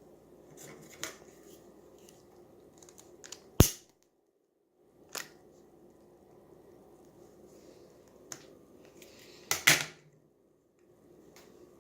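Sharp clicks and knocks of hands handling a model Stirling engine as its small generator is taken off, the loudest a single sharp click about a third of the way in and a double click near the end, over a faint steady low running sound. The sound drops out completely twice.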